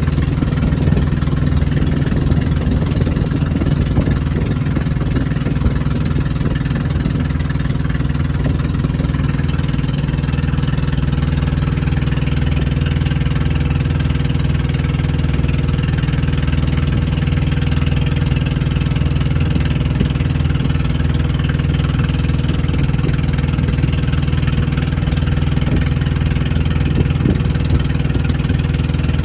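A boat's engine running steadily at an even pitch, with a constant hiss of wind and water over it.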